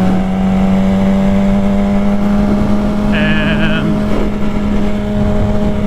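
Motorcycle engine running at a steady pitch while riding, under a low wind rumble on the microphone, with a brief higher wavering sound about three seconds in.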